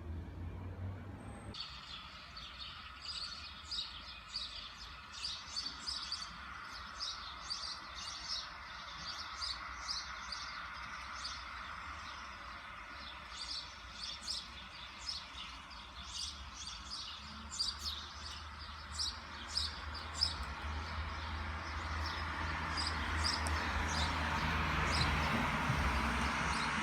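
Small songbirds chirping, many short, high, quick calls in a busy chorus that starts about a second and a half in. Under it runs a steady road-traffic hum, which grows louder near the end.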